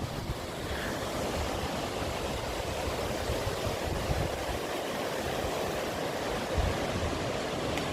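Severe thunderstorm wind rushing steadily through trees, with gusts buffeting the microphone in a low, uneven rumble.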